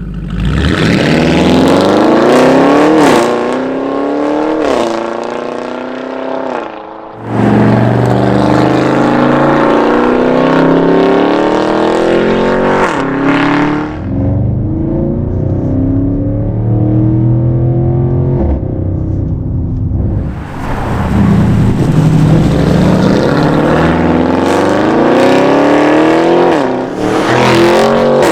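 Audi RSQ8's 4.0-litre twin-turbo V8 through a straight-pipe Capristo exhaust, accelerating hard through the gears: a rising engine note cut by quick upshifts. It makes three pulls, with the throttle eased between them and the engine running at a lower, steadier note for a few seconds in the middle.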